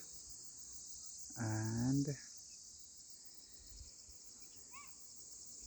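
A steady, high-pitched chorus of insects trilling with a fine, even pulse, with a few faint short chirps about four and a half seconds in.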